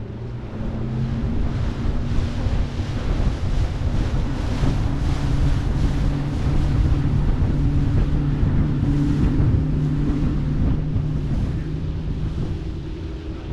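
Bass boat running at speed on open water: an outboard motor's steady drone under heavy wind buffeting the microphone and water rushing past the hull. It grows louder over the first couple of seconds.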